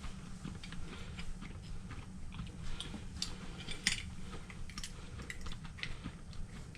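Irregular small clicks, taps and scrapes of hands working on dryer parts and tools, busiest around the middle, over a steady low hum.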